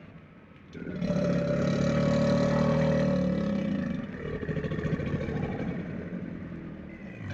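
An animal's low, rough growling call, starting about a second in and easing to a softer growl for the last few seconds.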